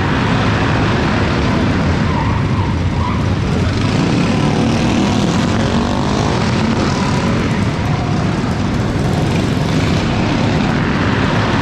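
Small single-cylinder minibike engines running, a steady loud drone.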